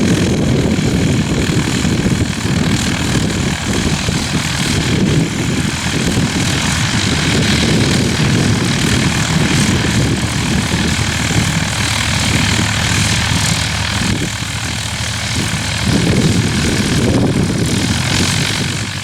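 Cessna 152 light aircraft's piston engine and propeller running steadily, mixed with a gusting wind rumble.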